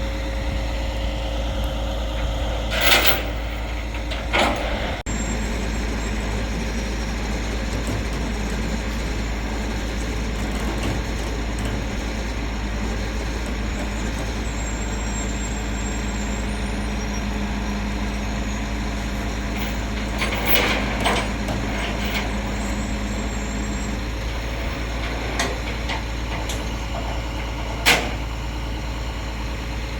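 Tow truck's engine idling steadily, with a few short sharp noises over it, the loudest near the end.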